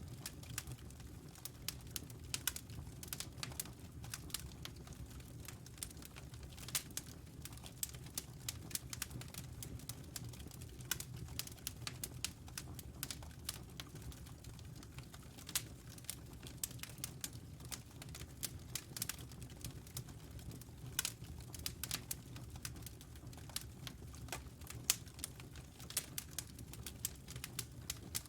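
Wood fire crackling in a fireplace: irregular sharp pops and snaps, several a second, some louder than others, over a steady low rumble of the flames.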